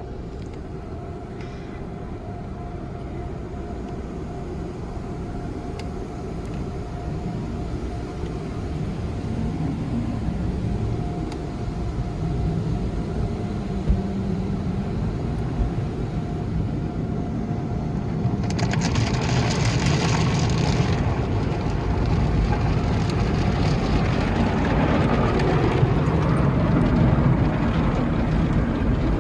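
Car wash machinery running with a steady low rumble that grows gradually louder. A loud hiss breaks in about two-thirds of the way through and lasts a couple of seconds.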